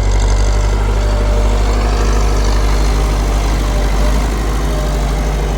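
Tractor engine running steadily, a loud, even low hum with no change in speed.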